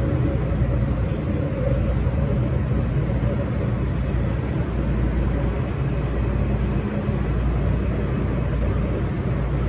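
MTR M-Train electric multiple unit running on the underground Tsuen Wan Line, heard from inside the car: a steady, loud rumble of wheels on track, with a faint humming tone over it.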